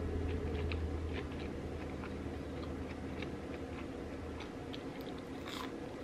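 Close-miked chewing with small irregular mouth clicks, over a low hum that stops about four and a half seconds in; a brief louder crunch near the end.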